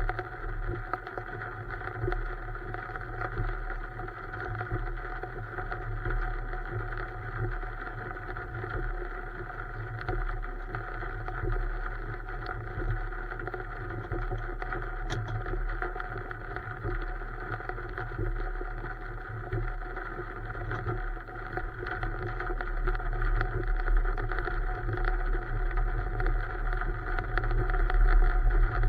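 A steady mechanical drone, as of a vehicle's engine running, growing a little louder over the last few seconds.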